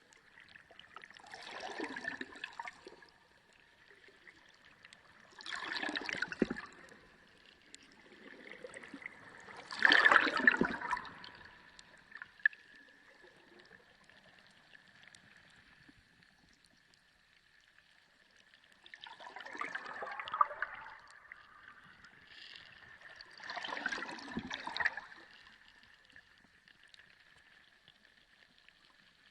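Sea water heard underwater, gurgling and sloshing in five surges about a second long each, the third the loudest, over a faint steady high hum.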